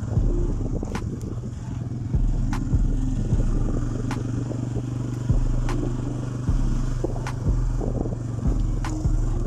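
TC-250 motorcycle's single-cylinder engine running steadily under way, with a low rumble and a sharp tick every second or so.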